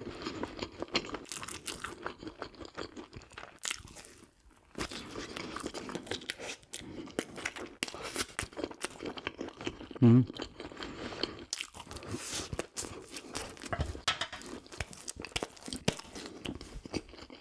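Close-miked eating sounds: crunchy bites and wet chewing of a Korean battered hot dog, irregular clicks and mouth smacks, with a brief hum about ten seconds in.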